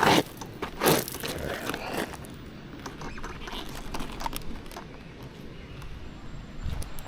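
Handling noise: a few sharp knocks and rustles in the first two seconds, then faint scattered ticks.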